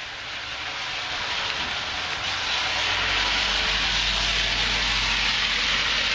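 Heavy rain and strong wind: the rushing noise swells over the first three seconds as a gust picks up, then holds, with a low rumble coming in about three seconds in.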